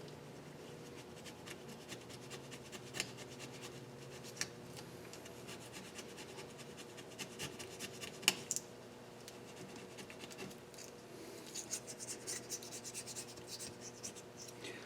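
Scraping and rubbing on the deck face of a KA24DE cylinder head as deposits are cleaned off, with scattered light ticks, a few sharper taps, and a busier stretch of scratching near the end. A faint steady hum runs underneath.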